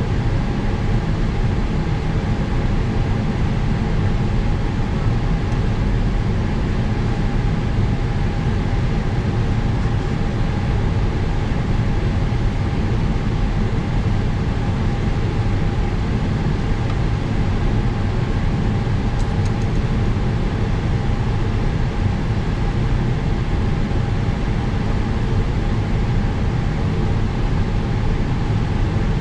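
Steady jet-airliner cockpit noise during an engine start on external pneumatic air: a constant low rushing hum with faint, unchanging whine tones above it.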